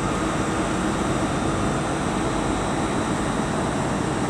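Steady rumble and hum of trains standing at the station platforms, with a few faint steady tones running through it.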